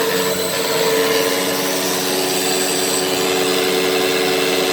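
Hoover WindTunnel T-Series upright vacuum cleaner running steadily: a constant motor hum and whine over a rush of air.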